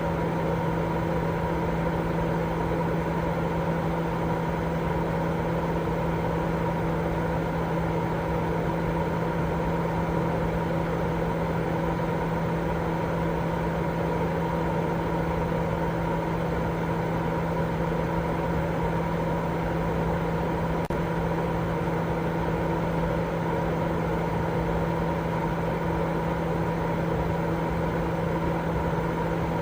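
Continuous baby-sleep white noise: a steady, even hiss that is heavier in the low and middle range, with a constant low hum running through it. It does not change at all.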